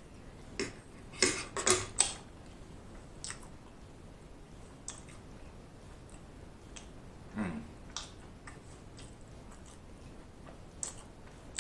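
A man chewing a mouthful of food with wet smacking and clicking mouth sounds. The loudest smacks come in a quick cluster in the first two seconds, then single clicks follow every second or two.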